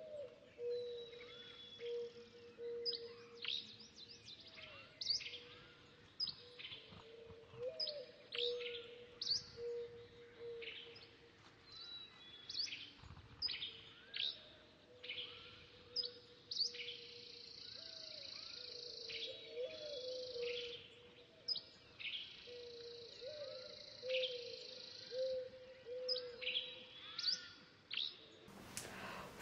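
Birds calling: short, sharp, falling chirps repeated every second or so, over a lower drawn-out note. A brief rush of noise near the end.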